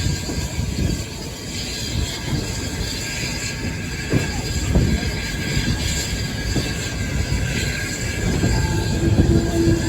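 Running noise of a heritage railway carriage in motion: a steady rumble of wheels on the track with uneven low knocks, and a faint steady tone near the end.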